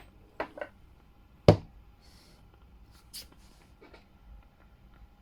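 Scattered light clicks and one sharp knock about a second and a half in, from things being handled, over a faint steady hum.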